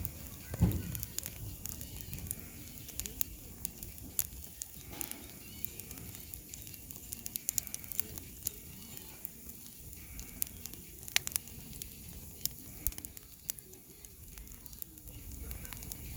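Firewood burning in an open campfire, crackling with frequent sharp pops and snaps. There is a single louder low thump about half a second in.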